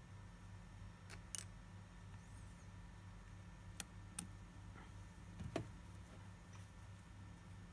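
A handful of small, sharp, irregularly spaced clicks of watchmaker's metal tools on a watch movement, over a steady low hum.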